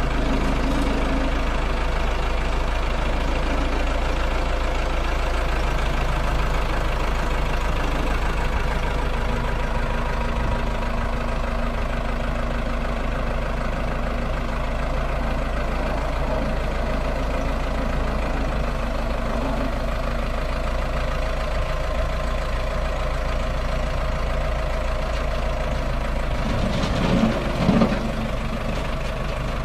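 2001 Case 580 Super M backhoe's diesel engine idling steadily, with a brief louder burst a couple of seconds before the end.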